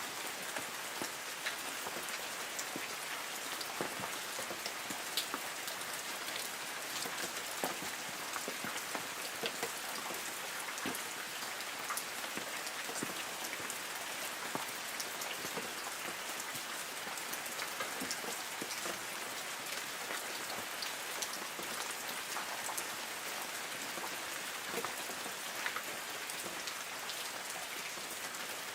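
Light rain falling steadily on forest trees: an even hiss scattered with many small, separate drip ticks from drops landing on leaves.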